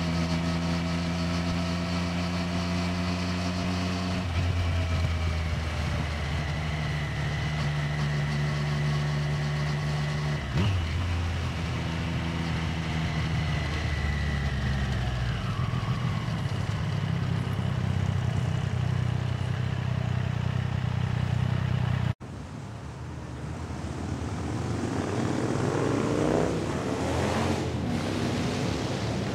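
Triumph Street Triple 765R's inline-three engine running at riding speed, its note stepping between gears and dropping as the bike slows about 15 seconds in, with wind noise on the microphone. About two-thirds of the way through the sound cuts off abruptly, and then the engine runs low under rising wind rumble as the bike rolls slowly.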